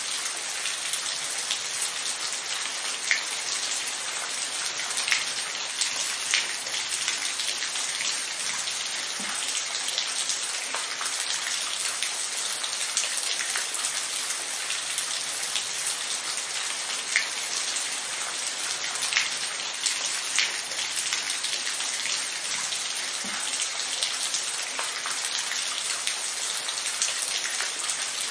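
Steady rain falling on a surface, an even hiss with individual drops ticking now and then.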